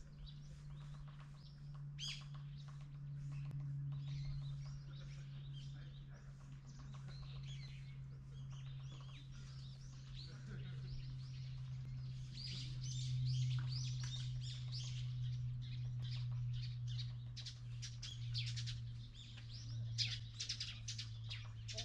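Many small birds chirping and twittering, busier in the second half, over a steady low hum.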